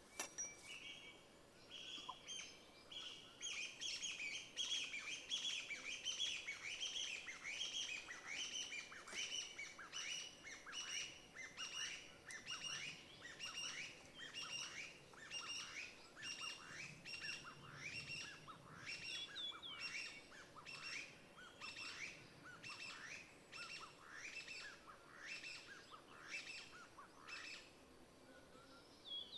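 A bird calling a long series of short, downward-slurred notes, about two a second and slowing slightly, which stops a couple of seconds before the end.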